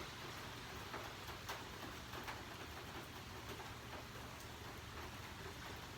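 Steady rain falling, a soft even hiss with scattered sharp drip ticks of drops hitting nearby surfaces.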